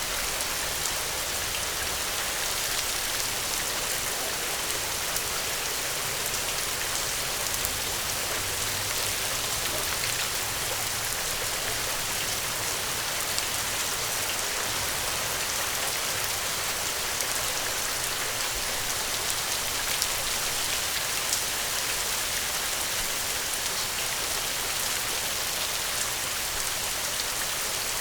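Steady rain falling: a dense, even hiss of drops, with scattered sharper ticks of single drops hitting a surface.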